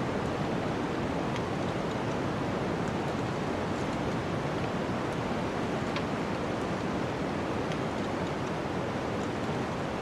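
Steady rushing noise of a snowstorm's wind, with a few faint sharp crackles from a wood fire scattered over it.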